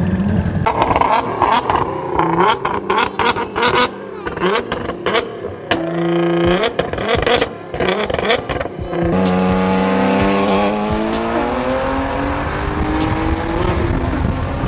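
High-powered race car engine at full throttle during a drag run: a stretch of sharp cracks and pops, then the engine note climbs steadily in pitch through a gear change.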